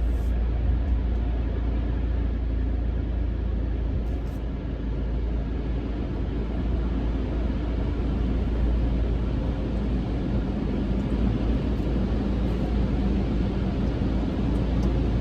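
Steady low rumble with an even hiss, heard from inside a car's cabin in an automatic car wash.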